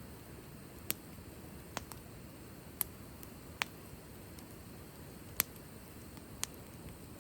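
Wood fire crackling: six sharp, irregularly spaced pops over a steady low background noise.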